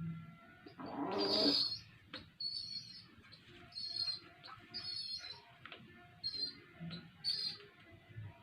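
Domestic pigeon squabs squeaking repeatedly, short high peeps about one or two a second, as they beg and are fed crop milk by a parent pigeon. About a second in comes a brief louder rustle.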